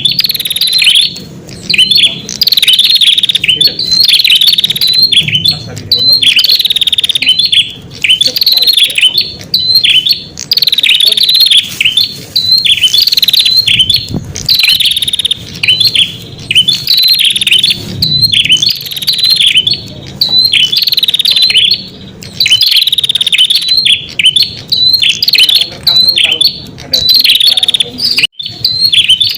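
Red-headed prenjak calling: loud, rapid, high chattering phrases repeated about once a second with brief gaps, the lure call used to draw in wild prenjak.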